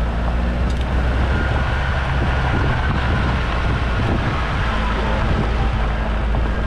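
Four-wheel-drive vehicle's engine running steadily with tyre and track noise while driving off-road.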